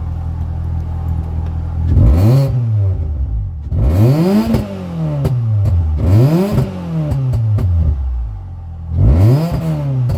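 Ford Fiesta ST150's 2.0-litre four-cylinder engine through a Sportex aftermarket exhaust, idling and then revved four times, each blip rising quickly and falling back to idle. The engine is still cold from its start.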